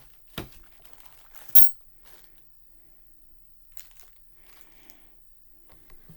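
Handling noise from tools being picked out of a piano tuning kit: a knock about half a second in, a sharp click about a second and a half in, then faint rustling and light ticks.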